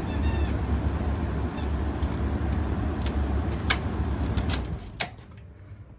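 Vintage Email wall exhaust fan running with a steady hum and rush of air, with a short squeak at the start and a few clicks. About five seconds in, a sharper click from the pull-cord switch is followed by a drop in the sound as the fan is switched over to run in reverse.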